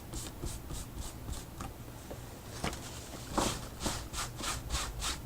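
Cloth towel rubbing wet gesso off a painted surface in repeated short scratchy strokes, about three to four a second, growing stronger about halfway through.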